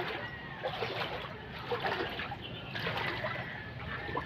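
Floodwater splashing and sloshing in irregular bursts, over a steady low background rumble.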